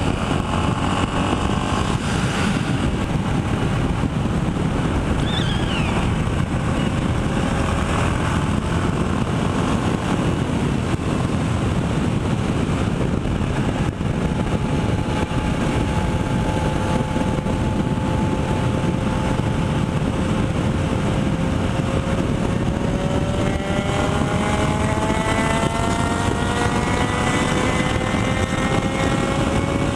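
Motorcycle engine running under a steady low rumble of wind and road noise; its note holds steady for a while, then climbs gradually in pitch over the last several seconds as the bike speeds up.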